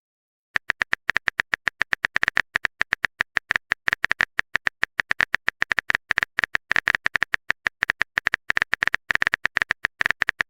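Keyboard typing sound effect: a fast, steady run of sharp clicks, roughly eight to ten a second, starting about half a second in.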